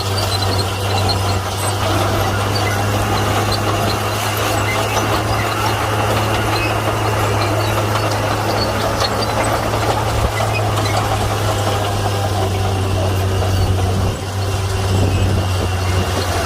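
Komatsu D41P bulldozer's diesel engine running steadily under work, a deep even hum with a brief dip in level near the end.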